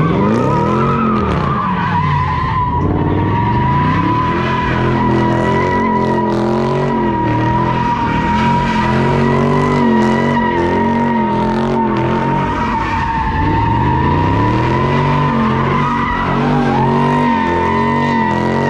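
A car spinning its tyres in a burnout, with a steady, loud tyre squeal held throughout. Under the squeal the engine revs up and down, once near the start and again about two-thirds of the way through.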